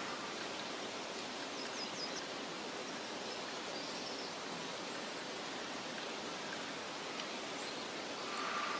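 Steady outdoor nature ambience: an even, soft hiss, with a few faint, short high bird chirps about two seconds in, again near four seconds, and once more near the end.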